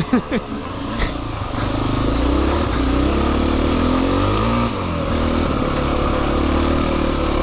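Dirt bike engine running under throttle while riding, its pitch climbing, dipping sharply about halfway through, then pulling up again.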